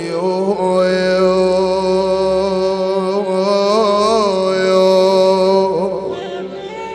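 A man sings an Iraqi funeral lament, drawing the last word of the line, "al-'uyun" ("the eyes"), out into one long, ornamented held note. The note fades about six seconds in.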